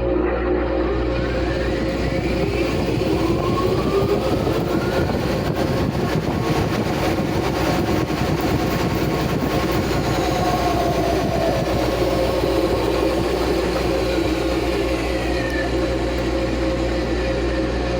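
Washing machine on its spin cycle, with a hair trimmer inside: a loud, steady mechanical whir and hum, with faint pitches sliding slowly up and down.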